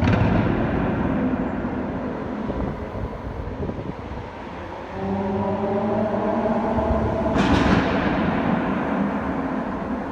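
Lamborghini Aventador S V12 engine driving past under throttle: a pitched engine drone that swells and fades, with a sudden loud blast of exhaust at the start and again about seven seconds in.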